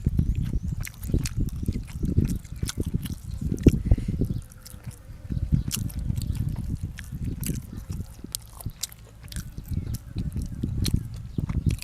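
Close-miked wet chewing of a person eating, with many small mouth clicks and smacks at an uneven pace.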